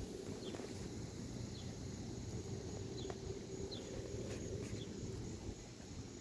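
Gusty wind rumbling on the microphone, with faint short bird chirps every second or so.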